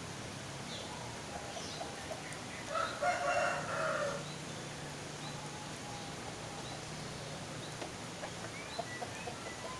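A rooster crows once, about three seconds in, for over a second. Faint short high chirps of small songbirds, among them the opior jawa (Javan grey-throated white-eye), sound on and off over a low steady hum.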